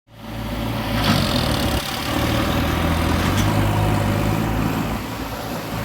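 Diesel engine of a backhoe or tractor running steadily at low revs.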